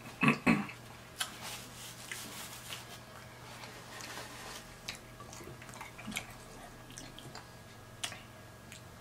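Close-miked chewing and lip smacking while eating, with two loud mouth sounds just after the start, then scattered wet clicks.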